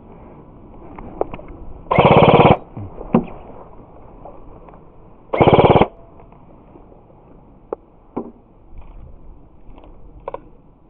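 Two short full-auto bursts from an airsoft rifle fired right at the microphone, about 2 and 5.5 seconds in, each about half a second of rapid shots, with a few scattered sharp clicks in between.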